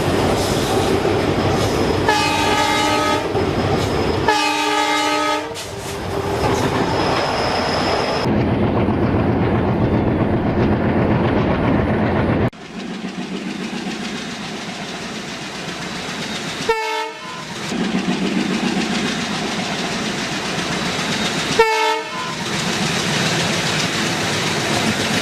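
Train on the move: continuous rumbling of the wheels on the track, with two horn blasts a few seconds in. The sound changes abruptly about halfway through, and later two short horn blips are heard.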